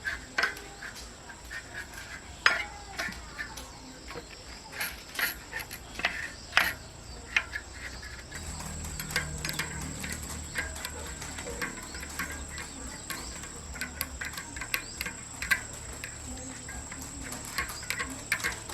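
Irregular light metallic clinks and taps of hand tools on metal bicycle parts, a few of them sharper knocks. A steady high-pitched tone runs underneath.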